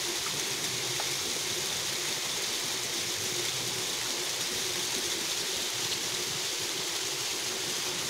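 Steady rushing of running water, an even hiss that holds without change.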